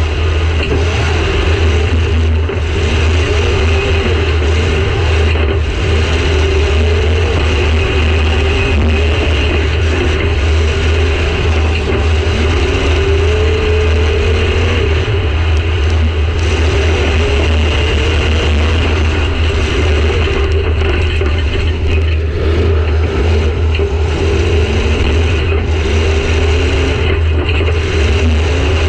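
Demolition derby car's engine running hard and revving up and down, heard from inside the stripped cabin, with a constant low rumble.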